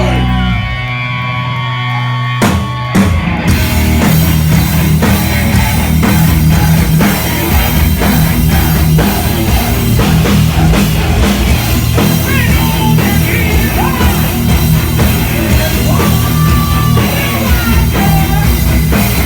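Rock band playing with drum kit and electric guitar. After a sparse break of about two and a half seconds, the full band comes back in with a loud hit and plays on steadily.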